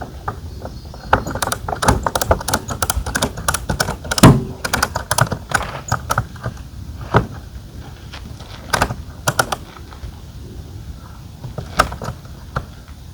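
A rapid, irregular flurry of light clicks and rattles for about five seconds, with one heavier knock about four seconds in, then a few scattered clicks: hardware and gear being handled while packing up a roof top tent.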